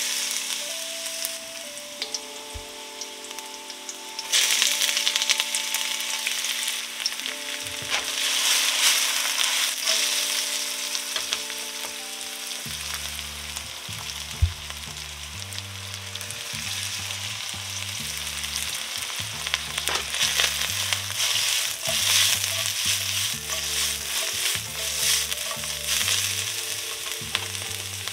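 Chopped garlic sizzling in hot oil in a wok as it is stirred; the sizzle gets louder about four seconds in. Partway through, sliced shiitake mushrooms and onion go in and fry along with it. Light background music plays underneath.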